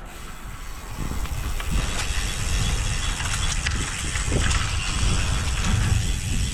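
Wind rushing over the microphone, with rolling noise from a road bike riding along. It grows louder about a second in and again around two seconds, with a few faint clicks.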